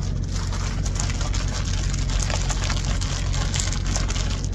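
Steady low drone of an idling truck engine, with a dense, irregular crackling patter on top.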